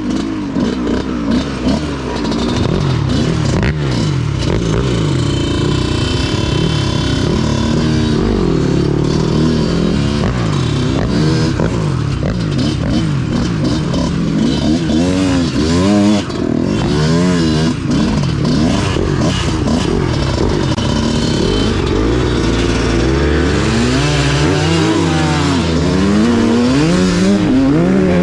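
Dirt bike engine ridden hard on a trail, its revs climbing and dropping over and over with throttle and gear changes.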